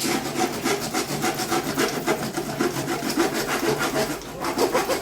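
Hand saw cutting through plywood in quick, even back-and-forth strokes, with a brief break about four seconds in.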